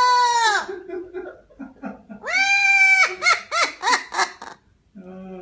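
Parrot giving loud, repeated calls. A long held call at the start and another a little over two seconds in are followed by a quick run of short rise-and-fall calls, about four a second, with quieter low chatter in between.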